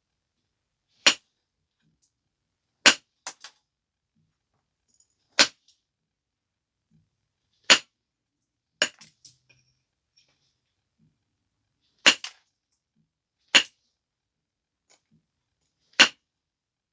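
Flintknapping a stone biface: sharp, separate clicks as flakes are struck off the edge, about eight strikes a couple of seconds apart, a few of them followed closely by one or two smaller clicks.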